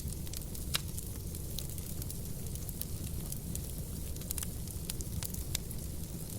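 Wood fire burning in a fireplace: a steady low rumble and hiss with frequent sharp crackles and pops, a louder pop a little under a second in.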